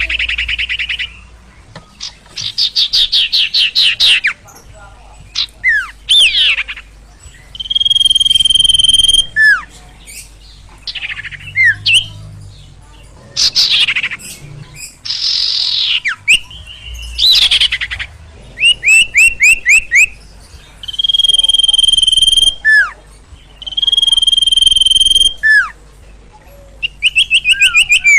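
A songbird known in Indonesia as sirtu or sirpo sings loudly in full 'gacor' song, agitated ('emosi'). The bouts alternate long held high whistles, fast rattling trills and short downward-sliding notes, with brief pauses between them.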